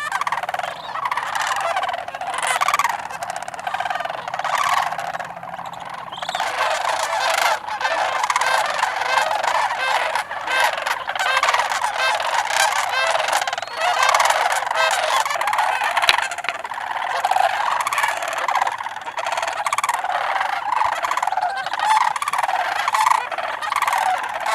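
A large flock of sandhill cranes calling: many overlapping rolling, trumpeting calls at once, continuing without a break.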